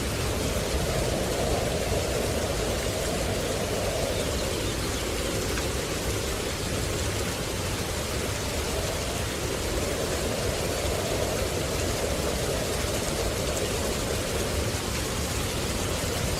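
Steady rushing water noise, like a rain ambience, with a midrange hiss that slowly swells and fades every few seconds.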